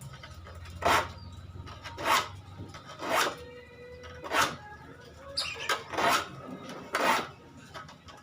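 Hand file rasping across the teeth of a handsaw, in separate strokes about one a second, to sharpen the dulled saw.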